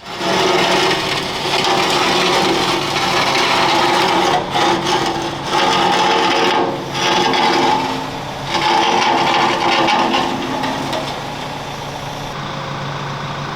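A power tool working on steel armour plate, a loud grinding run broken by several short pauses. Near the end it drops to a quieter steady hum.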